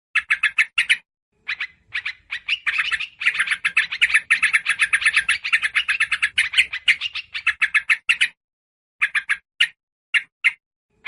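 Bird-lure recording of agitated small-bird chatter, sold as noisy yellow-vented bulbul calls mixed with prinia: rapid runs of sharp, high chirps, densest in the middle, breaking off briefly near the end into a few scattered chirps.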